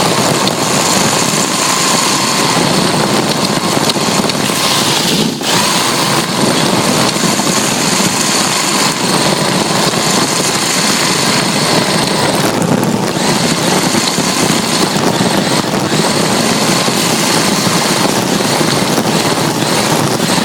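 RC drift car driving, heard up close from a phone strapped to its rear: a steady motor and gear whine over loud tyre and ground noise, briefly dipping about 5 and 13 seconds in.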